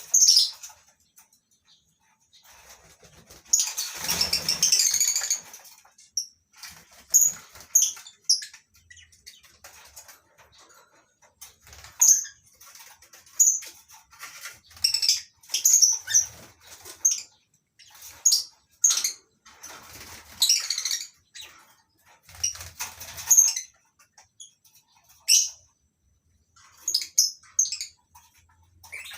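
A flock of lovebirds in an aviary giving short, high-pitched chirps and squawks, one after another every second or so. About four seconds in there is a two-second rush of fuller noise.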